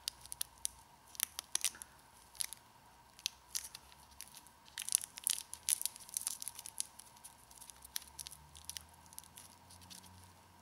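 Parcel tape being pulled off and pressed round a small paper-wrapped firework tube: irregular crackling and tearing, busiest in the middle.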